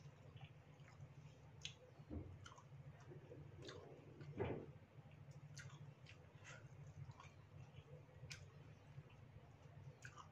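Faint close-up eating sounds from a mouthful of noodle soup: scattered wet chewing clicks and smacks, with one louder mouth noise about four and a half seconds in, over a steady low hum.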